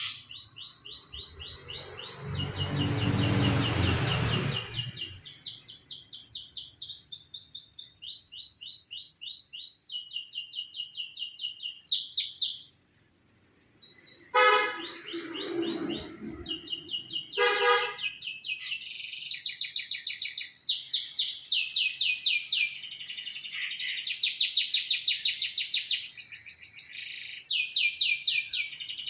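Domestic canary singing: long runs of rapid trills, each a fast series of repeated notes, changing from one trill type to the next. About 13 seconds in the song breaks off briefly. A low rumble rises in the first few seconds, and two short buzzy tones sound mid-way.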